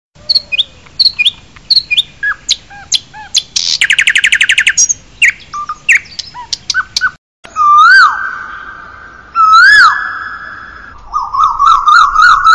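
Birds chirping, with a fast trill about four seconds in. After a brief break, a bird gives loud whistled calls, each rising then dropping sharply. Near the end it gives a quick run of repeated notes.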